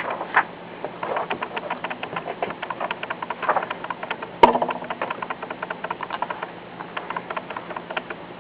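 Paper pages of a hardback book being handled and turned, a quick run of small crackles and rustles, with one sharp click about four and a half seconds in.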